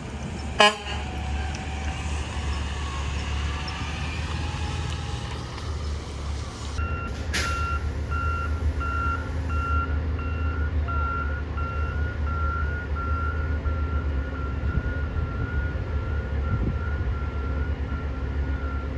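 Garbage truck's diesel engine running with a sharp bang about half a second in. From about seven seconds in, a truck's reversing alarm beeps at an even pace as it backs up.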